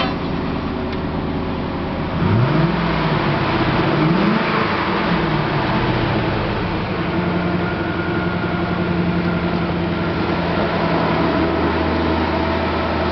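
1990 Chevrolet Corvette ZR-1's LT5 5.7-litre DOHC 32-valve V8 idling. It is revved twice, about two and four seconds in, the revs rising quickly and falling back each time, then settling to a steady idle.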